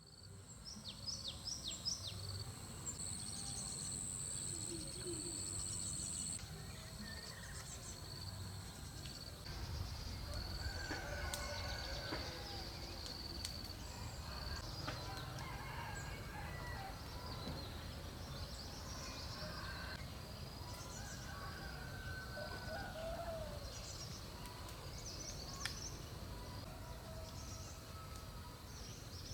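Birds calling and chirping on and off, over a steady high-pitched tone that stops about nine seconds in.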